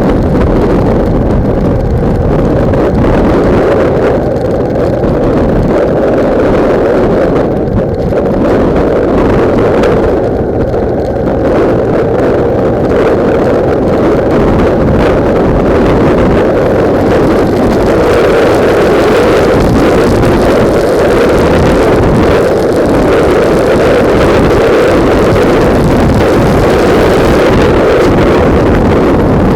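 Loud wind buffeting on the microphone of a camera mounted on a motorcycle while riding, a dense steady rush that dips briefly a couple of times.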